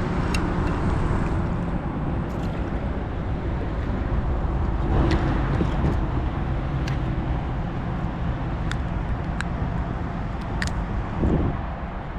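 Steady low rumble of wind buffeting the microphone, with a few small sharp clicks scattered through.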